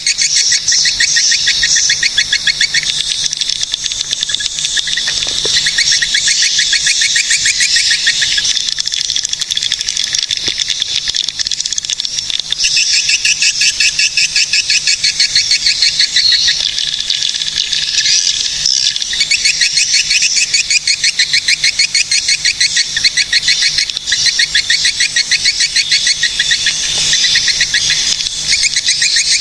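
Swiftlets twittering in a dense, high-pitched chorus of rapid chattering pulses that runs on without a break.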